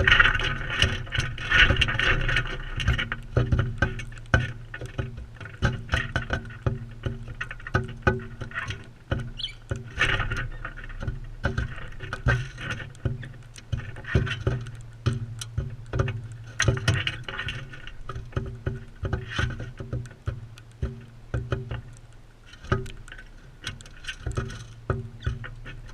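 Crimson rosellas pecking and cracking seed at a feeder close to the camera: rapid, irregular clicks and taps over a steady low hum.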